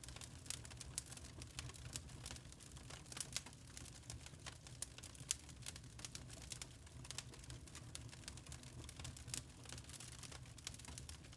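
Burning charcoal crackling: a dense, irregular run of small pops and ticks over a steady low rumble.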